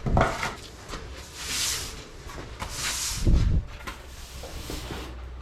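Wet snow and slush being cleared off a garage floor: a thump at the start, two short scraping hisses, and another thump about three seconds in.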